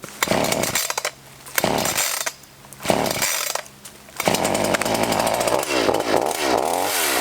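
Black Max 16-inch gas chainsaw being pull-started: it fires in three short sputters about a second apart, then catches and keeps running, its engine speed rising and falling near the end.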